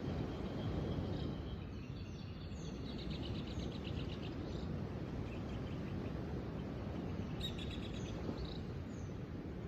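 Wild birds chirping and trilling, with one long trill early and another sharp trill later, over a steady low rushing background noise.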